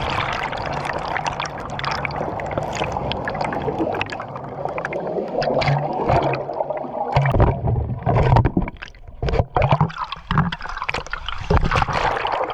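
Waterfall water rushing and splashing close to the microphone, a dense steady wash that turns choppy and uneven about halfway through.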